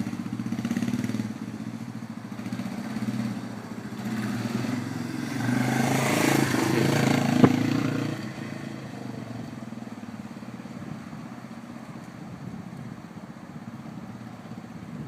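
Motorcycle engine running at low speed as the bike rides slow circles, growing louder as it comes close about halfway through, with a sharp click near the closest point, then fading away.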